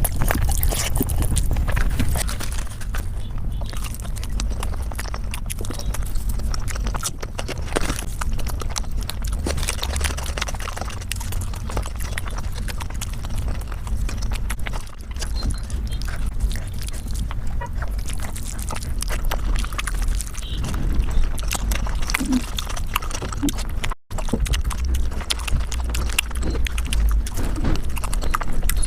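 Mukbang eating sounds sped up five times: a rapid, dense stream of chewing, smacking and mouth clicks over a low rumble, briefly cutting out once late on.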